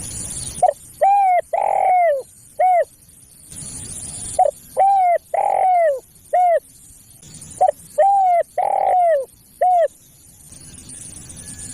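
Spotted dove (tekukur) cooing: three repeated phrases, each of four falling coos with the third coo the longest and loudest. Hiss fills the gaps between phrases. It is a calling recording of the kind used to lure doves.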